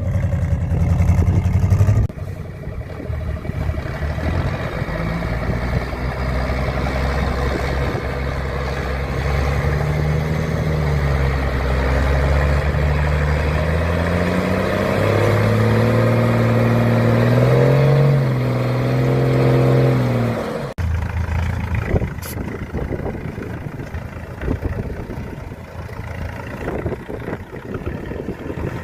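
Heavy off-road trial truck engine working under load, its pitch rising and falling as the throttle is opened and eased on a section. The sound changes abruptly twice, and after the second change, about two-thirds of the way in, it becomes a rougher, lower engine note with scattered knocks and clatter.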